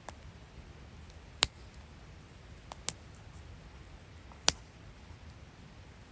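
Wood fire crackling: a few sharp, isolated pops of burning wood over a low steady hiss, the loudest about a second and a half in and again about four and a half seconds in.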